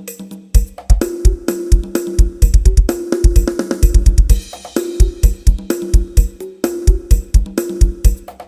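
Drum kit playing a busy pattern built on a tight, heavy bass drum with rapid runs of kicks, plus snare and cymbal hits, over a held low tone: a drum sound-check track for testing speaker bass.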